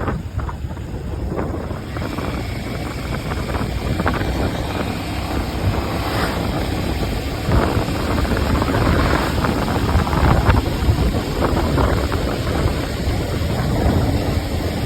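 Wind buffeting the microphone: a loud, continuous rushing rumble that swells and eases unevenly.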